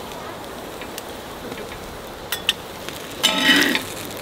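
Cabbage-and-egg pancake sizzling steadily on a camping griddle pan over a gas burner, with a few light spatula clicks and a metal spatula scraping under it near the end.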